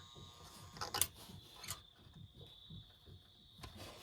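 Faint clicks and a low hum from a postwar Lionel toy train locomotive and its transformer as power is slowly raised at low speed; the locomotive is straining and needs more power before it will start moving.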